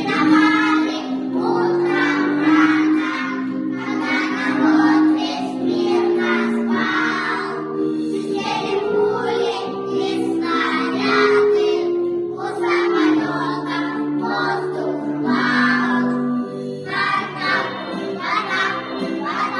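Children's choir singing a song with steady instrumental accompaniment.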